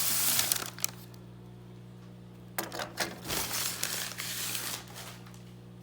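Packing material and small model train parts being handled: a rustle of packing at the start, then light clicks and knocks of pieces being handled about halfway through, over a steady low electrical hum.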